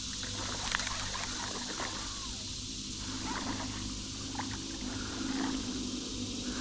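Creek water trickling, with small irregular splashes and drips.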